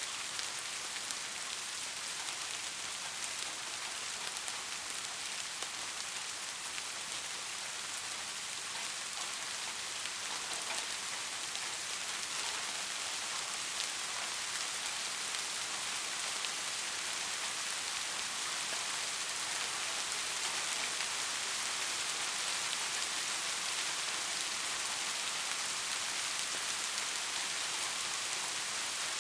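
Steady rain falling, a continuous even hiss with fine scattered patter of drops.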